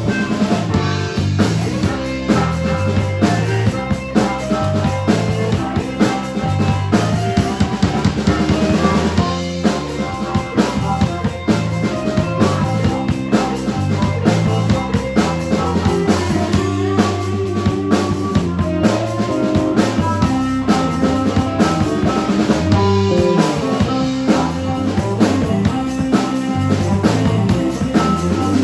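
Live rock band playing an instrumental passage, the drum kit prominent over bass and held melodic notes.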